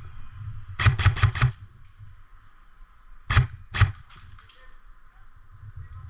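Airsoft gun shots: a quick string of four or five sharp shots about a second in, then two single shots a half second apart past the middle, followed by a few fainter shots.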